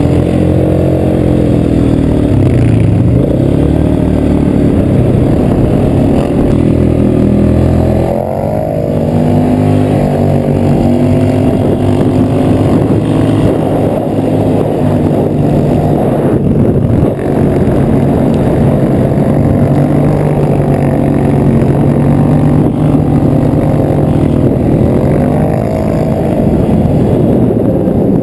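Polaris 850cc twin-cylinder engine in a go-kart, running hard and revving up and down repeatedly. The revs dip briefly about 8 and 17 seconds in as the throttle comes off.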